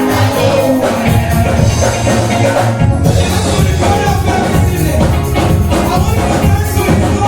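Live gospel music: a band with drum kit plays a steady beat, with a choir singing over it.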